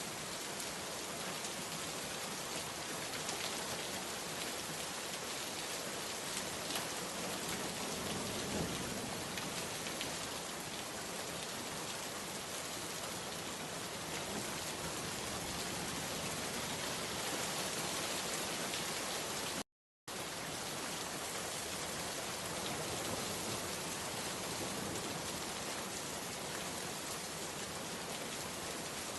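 Steady rain falling, a constant even hiss with scattered drop taps. The sound cuts out completely for about half a second about two-thirds of the way through, then resumes unchanged.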